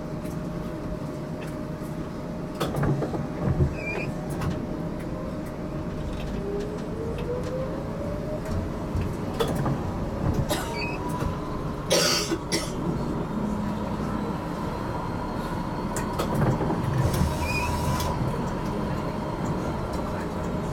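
HTM GTL8 articulated tram running, heard from on board: steady rolling noise with a motor whine that rises in pitch about a third of the way in, and a few short knocks from the wheels, the loudest just past halfway.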